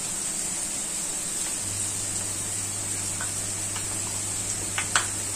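Chopped vegetables sizzling steadily in a steel wok over a full gas flame. A low steady hum joins about a second and a half in.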